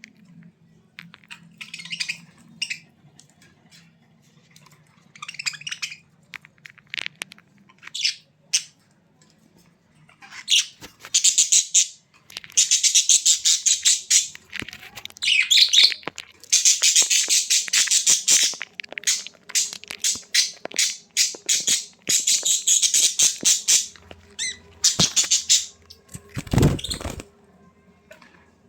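A bird squawking in repeated harsh, rapidly pulsed bursts, sparse at first and then almost continuous from about ten seconds in. A low thump comes near the end.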